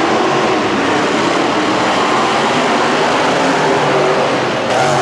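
Monster truck engine running loud, its pitch shifting up and down.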